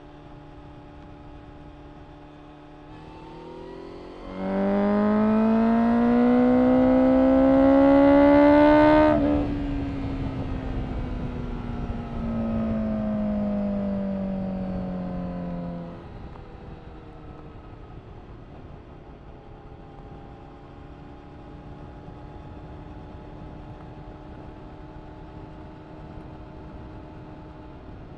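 Honda CBR1000RR-R SP Fireblade's inline-four with an Akrapovič exhaust accelerating hard, its note climbing in pitch for about four and a half seconds. The throttle then shuts and the note falls away over the next several seconds, with a short break partway down. Afterwards a quieter steady engine hum runs on.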